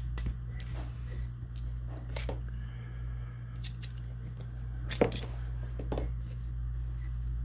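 Small metal parts of a side-by-side shotgun clicking and scraping as they are handled and fitted during reassembly, with the sharpest pair of clicks about five seconds in, over a steady low hum.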